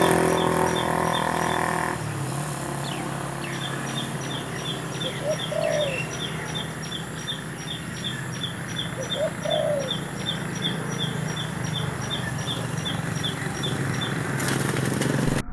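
A small bird repeats a short, high chirp about four times a second, with two short, low coos about five and nine seconds in. Beneath them is a steady low hum, louder for the first two seconds.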